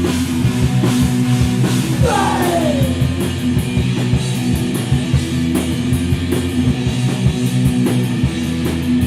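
Rock band playing an instrumental passage between vocal lines, with drums, guitar and bass; a falling pitch glide, like a guitar slide, comes about two seconds in.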